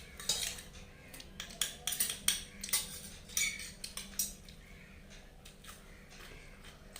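Plates and tableware clinking and scraping while food is eaten: a quick run of sharp clinks and scrapes, thinning out after about four seconds.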